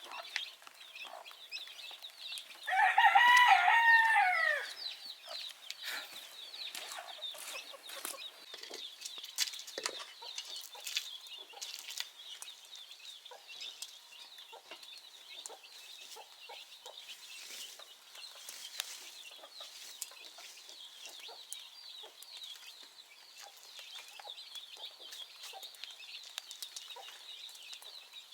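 A rooster crows once, a loud call of about two seconds starting a few seconds in. Faint high chirping and scattered short ticks run underneath.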